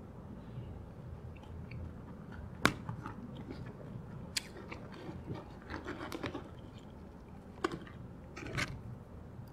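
Close-miked chewing and wet mouth sounds, broken by a few sharp clicks and a short run of small crackling taps in the middle; the sharpest click comes about two and a half seconds in.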